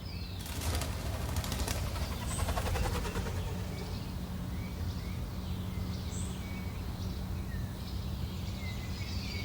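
Small birds chirping in short, scattered calls over a steady low background rumble, with a rustling flutter in the first few seconds.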